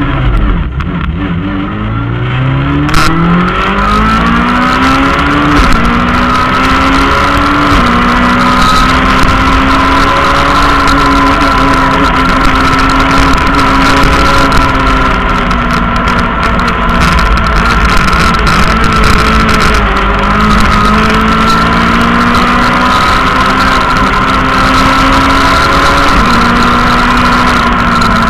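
Rally car engine heard from inside the cockpit, accelerating hard from the start through several quick upshifts, then held at high revs with small rises and dips as it is driven flat out. A steady high whine runs over the engine.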